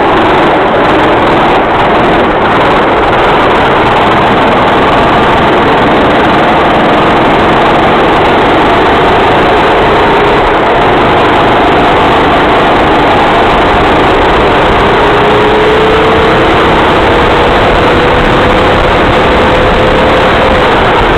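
Racing kart engine running hard under load, loud and continuous; its pitch climbs slowly over several seconds as the kart accelerates and drops suddenly near the end as the driver lifts off.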